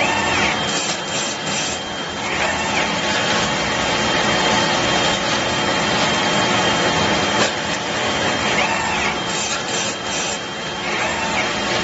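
Automatic bottle air-washing machine running: a steady mechanical hiss with a faint high whine. A few short bursts come about a second in and again near ten seconds, with a single sharp click in between.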